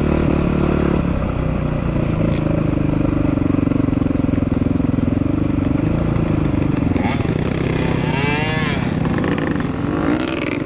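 Honda dirt bike's single-cylinder engine running steadily at low revs along a dirt trail, dropping in pitch about a second in as the throttle is eased off. Near the end, a brief sound that rises and falls in pitch lies over the engine.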